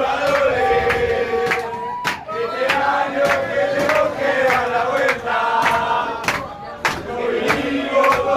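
Crowd of football fans chanting and shouting in unison inside a metro carriage, with loud sharp strikes landing in rhythm with the chant.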